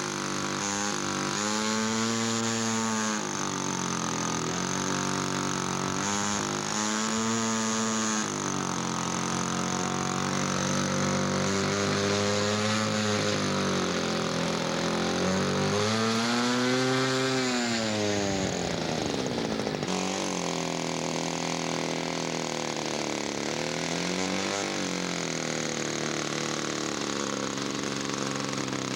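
Radio-controlled scale model airplane's small engine running in flight, its pitch rising and falling several times as the plane passes and the throttle changes.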